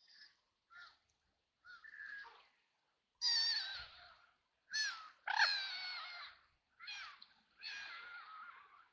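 Ducks quacking: a few short, soft calls, then from about three seconds in a run of loud, harsh, drawn-out quacks, five in all.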